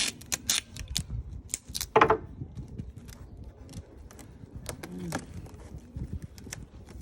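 Packing tape being pulled off its roll and pressed onto a cardboard shipping box: a string of short rustles, taps and scrapes, loudest about two seconds in.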